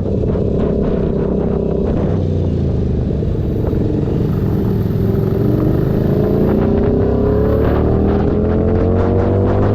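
Keeway SCR 250's 250 cc V-twin running through a Racefit free-flow exhaust, steady at first, then rising steadily in pitch from about halfway through as the engine speeds up.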